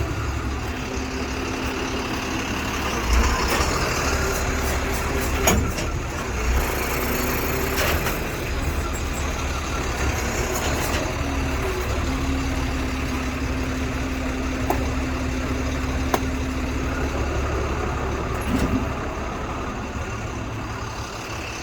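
Truck engine idling steadily, with a few sharp metal knocks from the towing gear being hooked up. A steady hum rises above the idle for several seconds past the middle.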